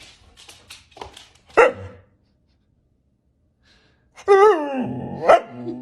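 A dog barks sharply once, then after a short pause gives a longer wavering vocal call that ends in another sharp bark.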